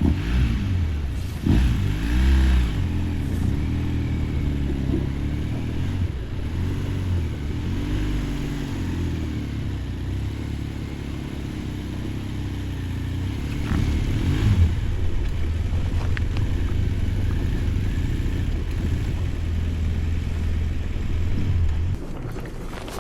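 Adventure motorcycle engine running under riding load, its revs rising and falling with the throttle; the engine sound cuts off suddenly near the end.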